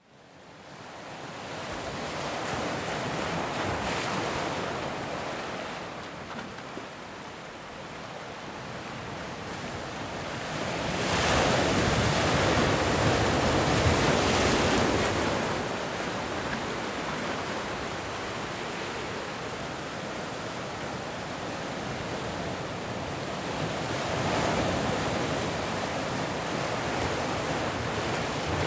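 Ocean waves breaking and washing up the shore, swelling to a loud surge about eleven seconds in and again near the end, with wind on the microphone.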